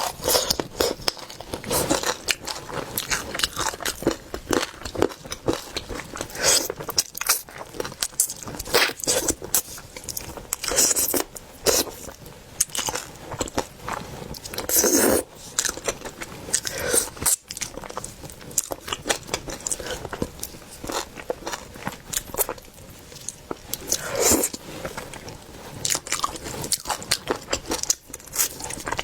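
Close-miked eating: a steady run of crunchy bites and chewing, with irregular sharp crackles and a few fuller crunches.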